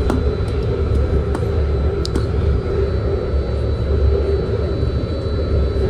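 BART train running along the track, heard from inside the car: a steady low rumble with a faint steady whine over it and a few light clicks.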